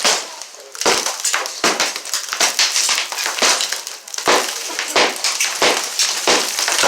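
A wall being knocked out during demolition: irregular blows and crunching as chunks of wall material break away and fall, with a brief lull about half a second in.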